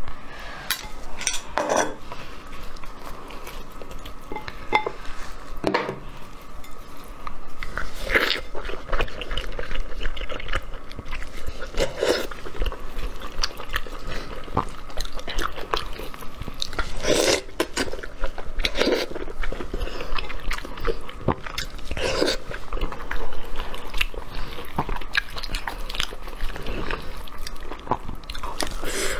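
Close-miked eating of braised sheep's head: the meat being torn apart by hand, then bitten and chewed, in irregular clicks and smacks.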